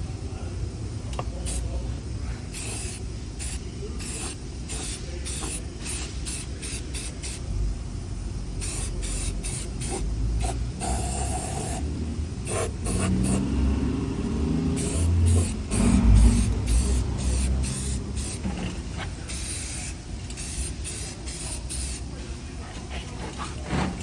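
Aerosol spray can being sprayed in repeated short bursts of hiss, over a low rumble.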